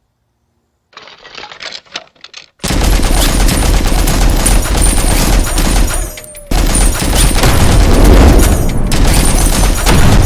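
Rapid, continuous gunfire like a machine gun firing, very loud, starting after a few scattered cracks, with a short break about six seconds in.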